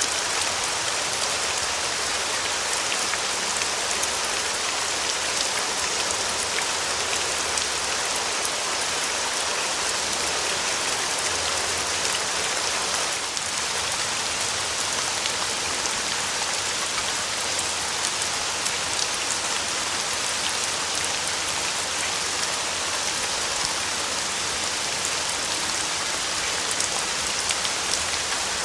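Steady rain falling, an even hiss of many fine drop ticks that never lets up.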